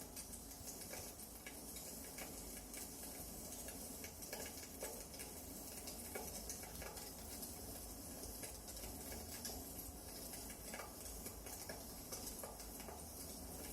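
Firewood burning in a fireplace, crackling with irregular small pops over a soft hiss.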